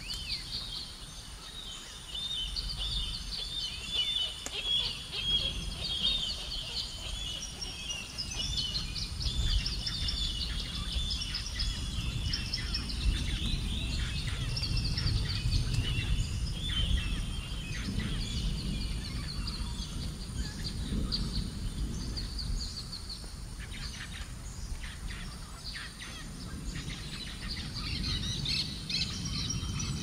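Songbirds chirping and trilling in quick, overlapping phrases, thinning out about three quarters of the way through and busier again near the end, over a low, uneven rumble.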